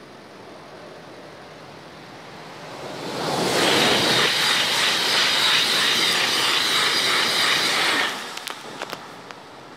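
ICE high-speed train passing at speed: a rushing sound that builds about three seconds in, stays loud for some four seconds with a steady high whine over it, and cuts off abruptly as the last car goes by.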